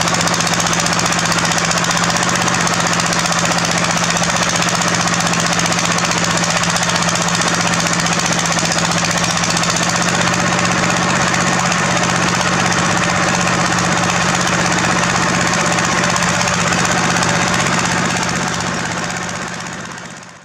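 Heavy construction machinery at work: a diesel engine running under a fast, continuous rattling clatter. The sound fades out near the end.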